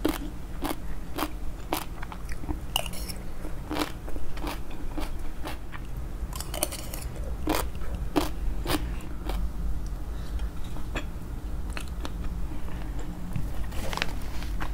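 Close-miked chewing of crunchy shredded green papaya salad (som tum): crisp crunches about twice a second, thinning out in the last few seconds.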